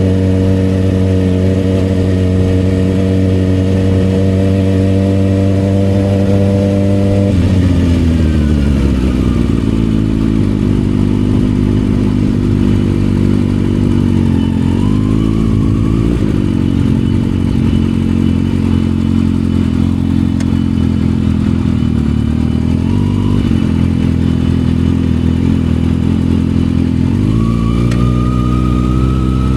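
Kawasaki ZX-6R inline-four engine through an aftermarket M4 exhaust, ridden: it holds steady revs, drops off about seven seconds in and runs lower with a couple of short blips, then the revs climb again near the end.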